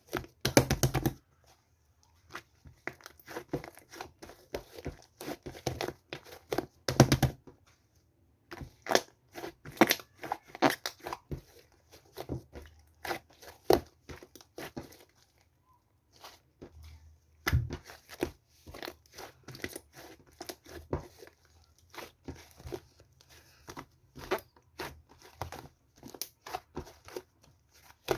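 Irregular crinkling and crackling, with louder bursts of tearing-like noise, as something is handled close to the microphone in a small room. There are short pauses, the longest about halfway through.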